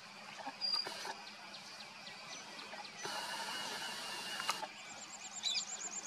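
Small birds chirping: many short, high, falling chirps with a brief whistle about a second in, then a stretch of hiss midway and a fast, high, pulsing trill from about five seconds on.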